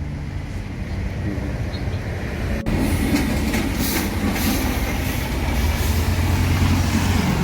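Steady low rumble of passing vehicles, with an abrupt cut about two and a half seconds in, after which the rumble is a little louder.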